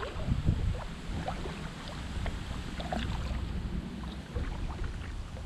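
Water splashing and trickling around a kayak being paddled, with wind rumbling on the microphone, strongest in the first second.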